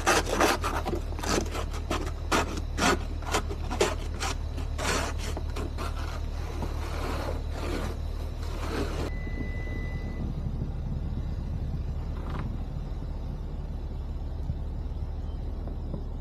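Snow being scraped clear in quick, repeated strokes, about two a second, that stop about nine seconds in. A low, steady engine hum runs underneath.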